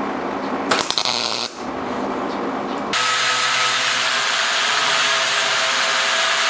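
A steady machine hum, broken about a second in by a short, loud burst of clattering, then a power tool starts about three seconds in and runs steadily with a loud, high hiss.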